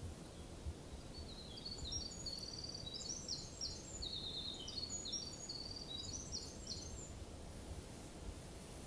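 A songbird singing one long, fast, jumbled song of high trills and short notes, starting about a second in and ending about seven seconds in, over a low background rumble.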